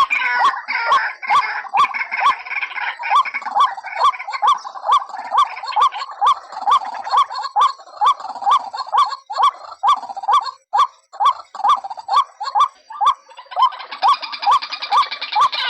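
White-breasted waterhen calls, a steady run of short rising notes about three a second, each with a sharp click. Denser overlapping calls come near the start and again near the end.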